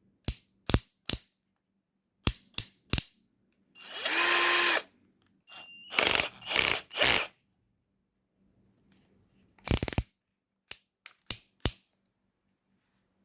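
Total TDLI12415 cordless drill run briefly several times, each run under about a second. Sharp single clicks come between the runs, a few near the start and a few near the end.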